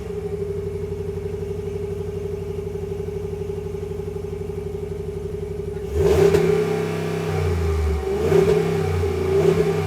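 2022 Ram 1500 Rebel's 5.7-litre HEMI V8 idling steadily just after start-up, then revved several times from about six seconds in, its pitch rising and falling with each blip.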